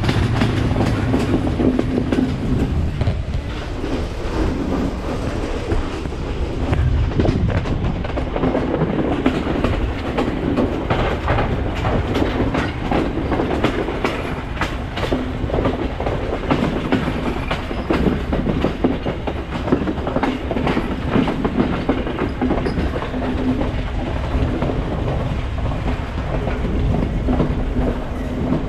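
Express passenger train running along the line, its wheels clattering over the rail joints, with a low steady hum underneath.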